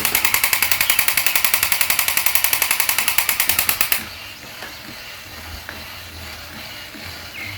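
A rapid, even rattle of sharp clicks, about ten a second, that stops suddenly about four seconds in.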